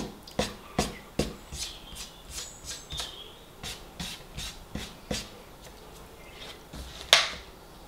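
Close-up chewing with wet lip smacks, a string of sharp clicks about two or three a second at first, then sparser, the loudest near the end. Birds chirp faintly in the background.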